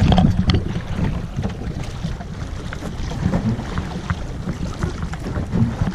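Wind buffeting the microphone in a steady low rumble, with scattered small clicks and knocks.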